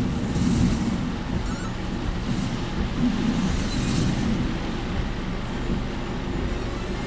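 Car driving on a wet road in typhoon rain and wind, heard from inside the cabin: a steady low rumble of engine and tyres, with several brief swishes of hiss.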